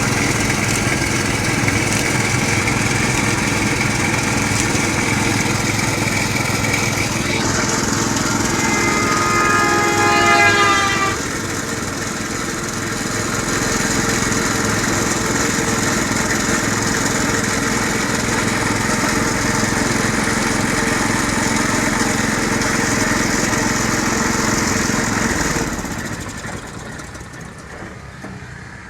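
Motor-driven sugarcane juice crusher running steadily as cane is pressed. A pitched squeal with several tones, rising slightly, sounds for about three seconds a little after seven seconds in. Near the end the running noise falls away.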